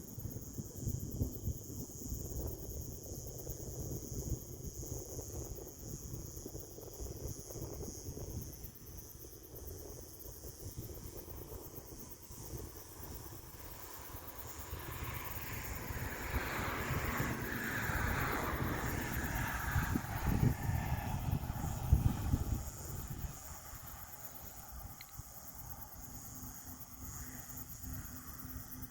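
Crickets chirping in a steady high trill, with wind rumbling on the microphone. About halfway through, a passing vehicle swells up and fades away over several seconds, its pitch dropping as it goes by.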